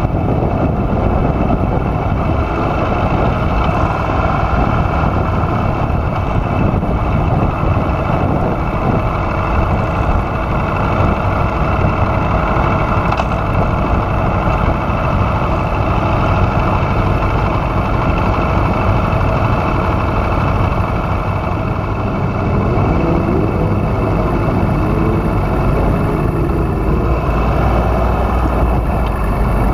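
Aprilia Tuono V4R's V4 engine running steadily and loud, with little change in pitch.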